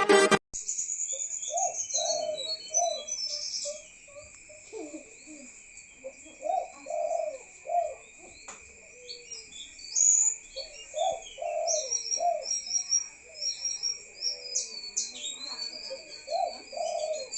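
Spotted dove cooing: repeated phrases of three or four low coos, recurring about every four to five seconds. A steady high hum and scattered high chirps run underneath.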